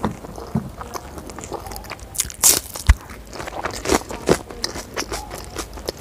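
Close-miked eating sounds: a mouthful of Schezwan fried rice being chewed, with irregular sharp clicks and crunches. The loudest is a short crackly crunch about two and a half seconds in.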